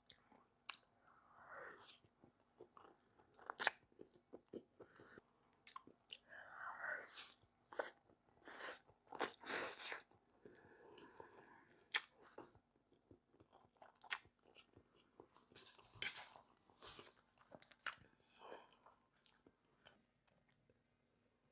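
Close-up mouth sounds of a person chewing creamy Mexican green spaghetti and chicken: quiet, irregular wet smacks and clicks, with a few longer noisy stretches of chewing between pauses.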